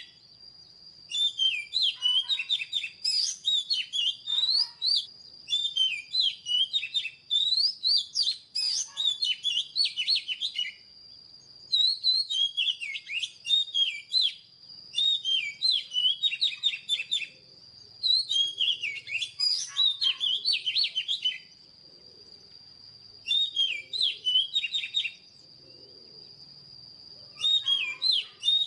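Oriental magpie-robin singing: a run of phrases of rich, quickly varied whistles and slurred notes, each phrase lasting one to three seconds, with short pauses between them. A thin, steady high-pitched tone runs underneath throughout.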